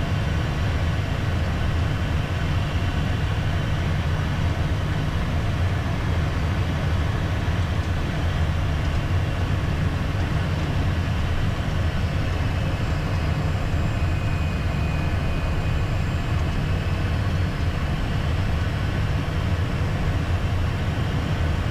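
Steady low rumble of cockpit noise in a Beechcraft Premier 1A twin-jet on final approach: airflow and engine noise at an even level.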